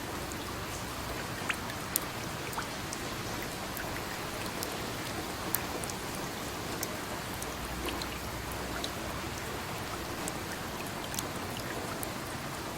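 Steady rain falling, a constant hiss with scattered individual drops ticking sharply onto a hard surface.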